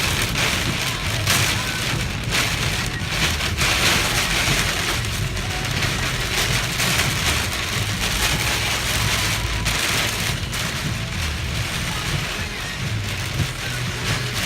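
Heavy rain pouring down in a severe thunderstorm: a steady rushing hiss with a low rumble underneath.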